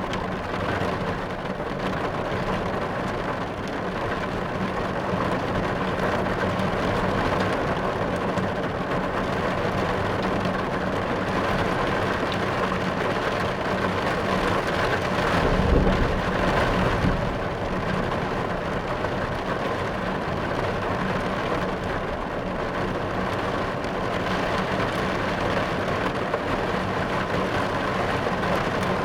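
Steady rain falling on a car's roof and windshield, heard from inside the car, with a low rumble of thunder about halfway through.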